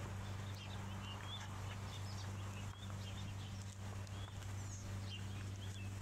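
Small birds chirping in short, high calls scattered throughout, over a steady low hum.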